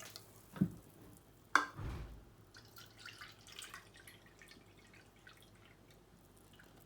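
Water dripping after hot water is poured over tapioca pearls, as faint scattered drips. There is a soft thump under a second in, and a sharp knock followed by a dull thud about a second and a half in, as something is set down.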